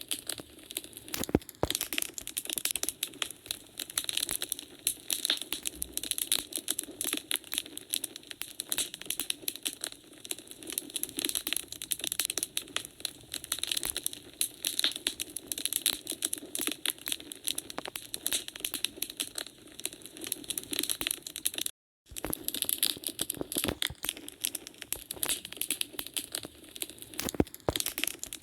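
Wood fire in a fireplace crackling and snapping, with dense irregular pops over a steady low rush of flame. The sound cuts out for a split second about three-quarters of the way in, then resumes.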